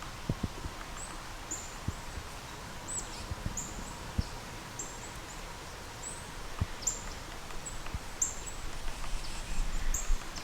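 Woodland ambience: a small bird repeating short, high, falling chirps about once or twice a second, with a few soft low knocks.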